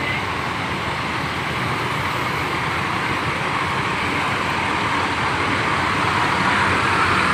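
Diesel bus engine running amid terminal traffic noise, growing gradually louder.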